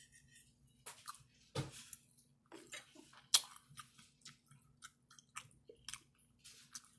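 A person chewing a mouthful of spaghetti with meat sauce close to the microphone: soft, irregular wet mouth clicks and smacks, one to three a second.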